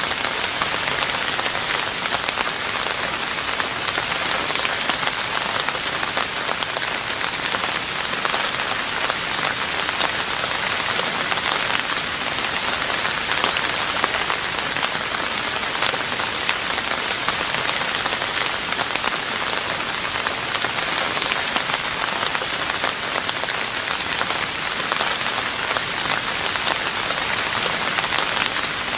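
Steady rain falling on a roof: an even, dense hiss of many small drop impacts, unchanging throughout.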